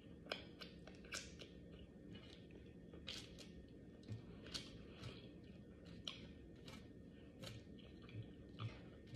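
Close-miked chewing while eating a meal: faint wet mouth clicks and smacks, about two a second.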